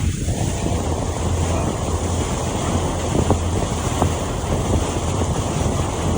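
Wind buffeting the microphone over the steady low hum of a boat's engine idling on the water.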